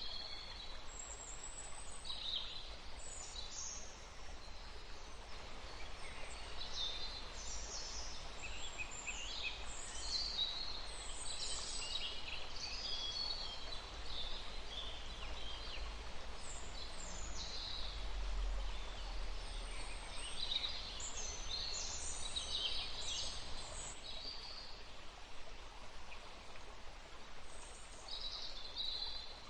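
Wild songbirds chirping and twittering, with many short high-pitched calls overlapping and busiest in two stretches, over a faint low rumble.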